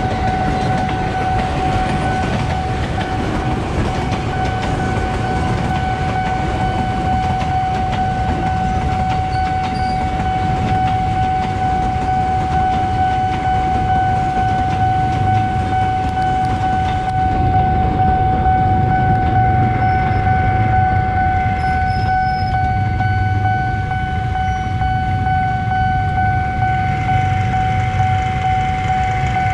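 Electric KRL commuter trains running past at a railway level crossing, with a heavy low rumble from wheels and track. Under it, the crossing's warning alarm holds one steady high tone throughout.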